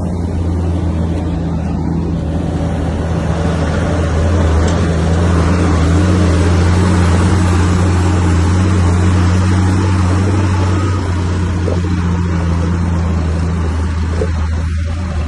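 Diesel engine of heavy earthmoving machinery running steadily with a low hum, growing louder for several seconds in the middle and then easing off near the end.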